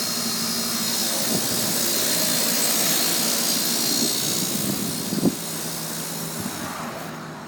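An outdoor air-conditioner or heat pump condenser unit running: a steady rush of air from the condenser fan over a low compressor hum. There is a single knock about five seconds in, and the rushing eases near the end.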